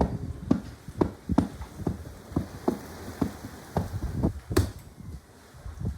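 A series of short, dull knocks at an uneven pace, about two a second.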